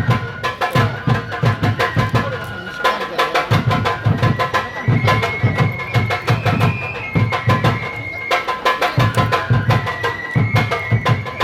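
Shinto kagura music: a drum beaten in quick clusters of strokes with brief pauses, under a high melody held in long notes that step up and down, typical of the kagura flute.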